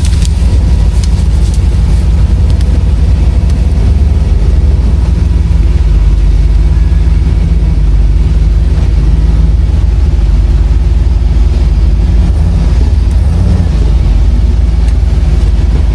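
Off-road vehicle engine running steadily close to the microphone, a loud, even low drone with no revving.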